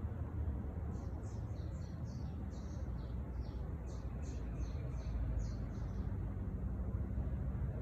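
A songbird singing a quick run of short, high chirps for about five seconds, starting about a second in, over a steady low rumble.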